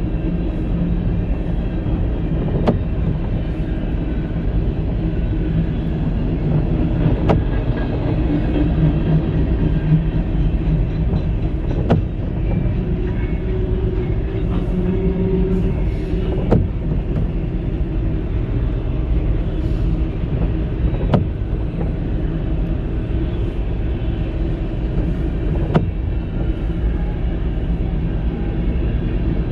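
Freight cars of a long mixed freight train rolling past, a steady rumble of steel wheels on the rails, with a sharp click every four or five seconds.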